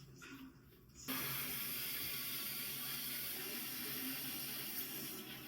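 Water running steadily from a tap, a full even hiss that starts suddenly about a second in.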